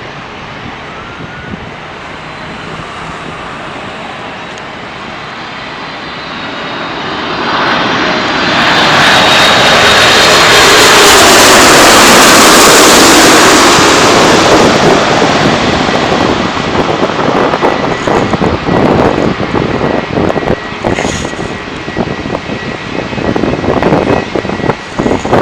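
Jet airliner's engines passing close by, the noise swelling over several seconds to a loud peak about twelve seconds in, then fading into a ragged, crackling rumble.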